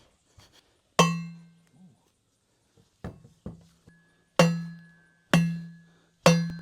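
Hammer blows on metal hardware: six strikes, the two around three seconds in lighter, each ringing out with a clear metallic tone that dies away over about a second.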